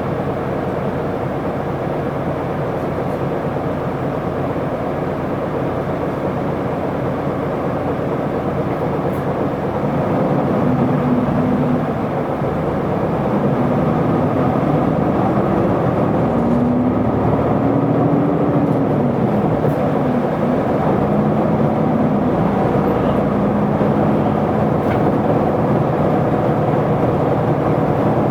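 Interior running sound of an Isuzu Erga city bus, its 6HK1 inline-six diesel engine and road noise heard from inside the cabin. From about ten seconds in it gets louder and the engine note climbs and drops several times, as when the bus pulls away through its gears, then settles to a steady note.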